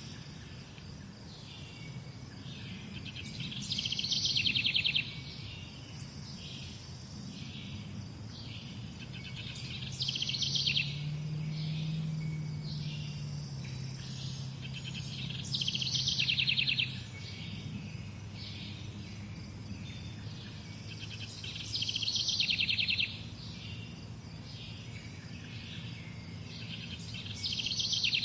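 Morning birdsong: a songbird repeats a short, rapid trilled phrase about every six seconds, with softer chirps between, over a steady low hum.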